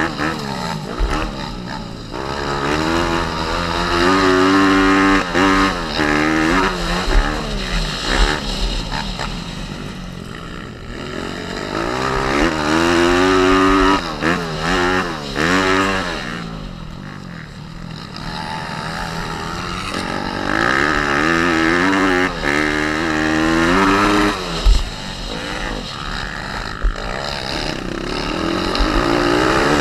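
Pit bike's small four-stroke single-cylinder engine being ridden hard. Its pitch rises and falls again and again as the throttle is opened and rolled off, with a couple of short lulls when the revs drop off.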